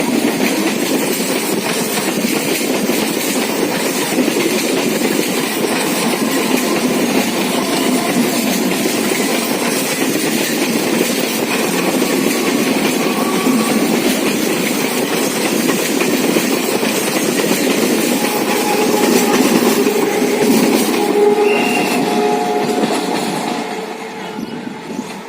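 Electric suburban local passenger train running along the track, its wheels clattering over the rail joints, the sound falling away over the last couple of seconds.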